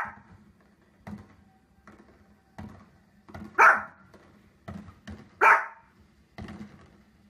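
Small fluffy dog barking: two loud, sharp barks a little under two seconds apart, with fainter short sounds between them.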